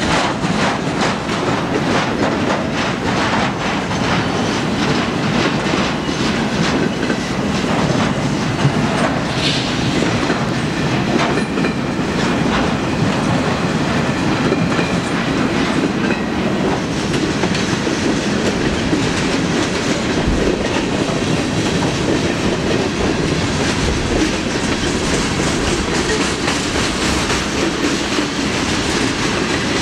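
Freight cars of a mixed freight train rolling past close by: a steady rumble of steel wheels on rail with repeated clickety-clack over the rail joints.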